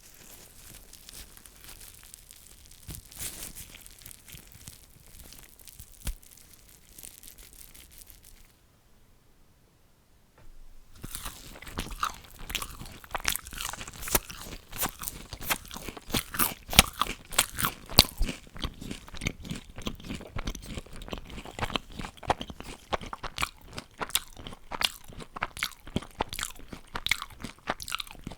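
Close-miked eating: softer chewing for the first eight seconds, a brief pause, then from about ten seconds in loud, rapid crunching of crisp fried food being bitten and chewed.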